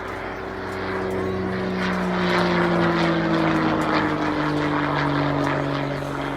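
Piston-engined propeller airplane flying past, its engine note growing louder and then sliding steadily lower in pitch as it goes by.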